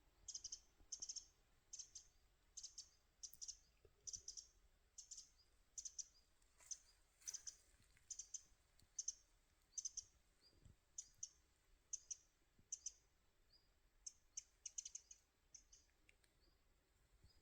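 Faint, short, high-pitched chirps from a small bird, repeated one or two times a second, with a quick cluster of them near the end.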